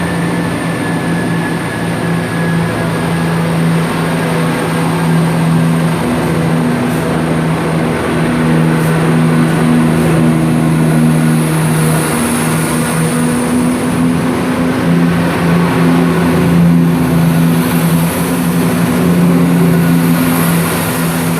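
Diesel engines of Chiltern Railways class 168 diesel multiple units running under power as the train pulls out, a steady low drone that grows slightly louder in the second half.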